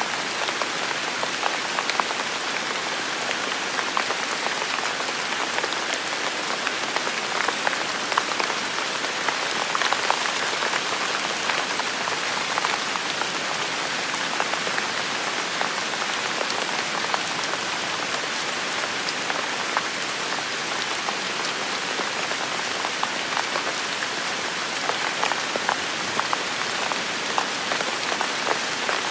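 Heavy rain falling steadily, a dense even hiss sprinkled with the ticks of individual drops striking.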